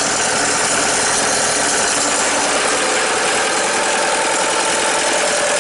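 Bobcat 873 skid-steer loader's diesel engine idling steadily just after a cold start, running smoothly having fired up first time without a jumper.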